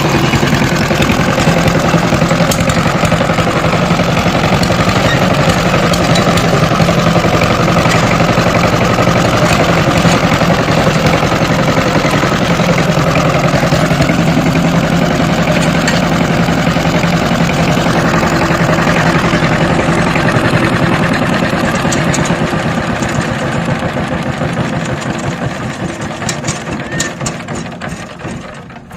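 Power tiller engine running steadily with an even, pulsing beat, growing gradually fainter over the last several seconds.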